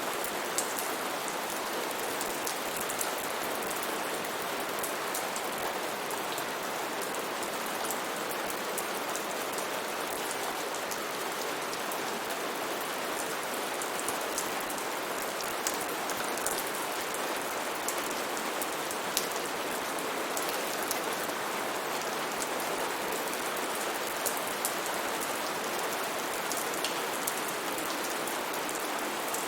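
Steady rain falling, an even patter with scattered sharper drop ticks on a surface.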